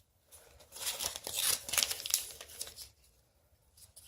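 Sheet of paper rustling and crinkling as it is folded and creased by hand, dense for about two and a half seconds, then a few faint taps.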